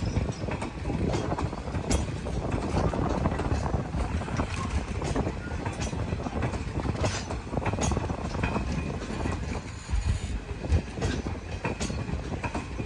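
Passenger train rolling past, its wheels clicking irregularly over rail joints over a steady rumble.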